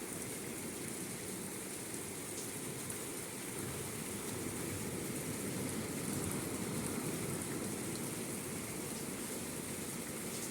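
Steady rain falling, an even hiss with a low rumble beneath it, growing a little louder in the middle.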